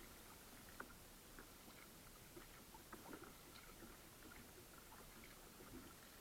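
Faint, scattered small drips and splashes of water around a kayak, with irregular light ticks over a low steady hiss.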